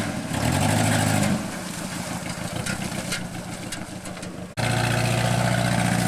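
1985 Pontiac 6000's engine revving up and back down as the car pulls away, then running quieter and lower. About four and a half seconds in, the sound cuts off abruptly and comes back as a steady, louder engine note.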